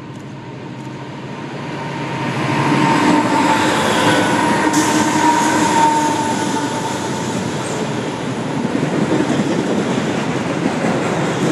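Railroad cars rolling past close by, the steel wheels on the rails making a loud, steady rumble with a faint ringing squeal. The sound swells over the first few seconds, then holds.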